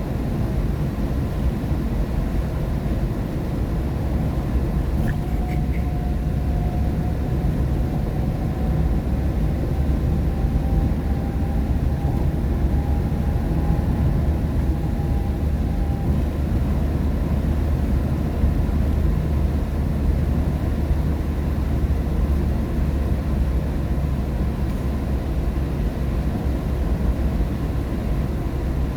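Car driving on a rain-wet highway, heard from inside the cabin: a steady low rumble of tyres and engine with a hiss of wet road and rain over it. A faint whine rises slightly in pitch for about ten seconds, starting a few seconds in.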